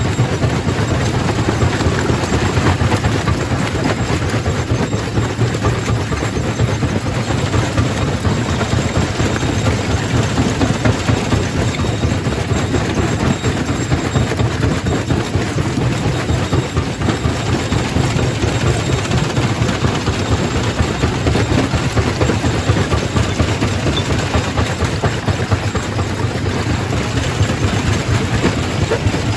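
Primary rock crusher running, a loud steady machine din with a dense, continuous rattle of stone being crushed over a deep hum.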